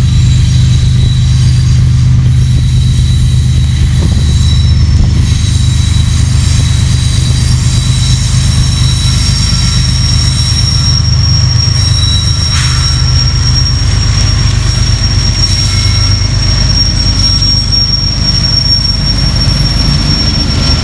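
BNSF GE diesel-electric locomotives pulling a loaded grain train away under power, a deep steady engine drone growing as the units pass close by. Thin high wheel squeal runs over it, clearer in the second half as the covered hopper cars start rolling past.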